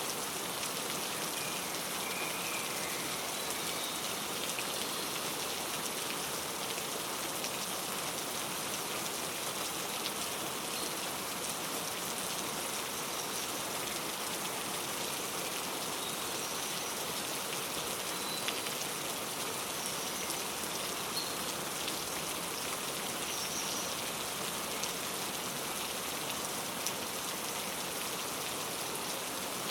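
Steady rain falling, a constant hiss with individual drops ticking on a surface. Faint, sparse bird chirps sound now and then above the rain.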